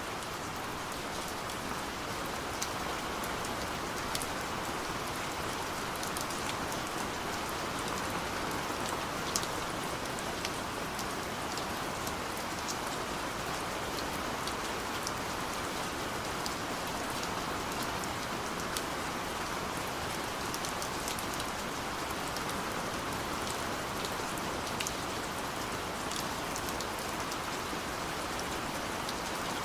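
Steady rain falling, a continuous even hiss with scattered sharper drop ticks.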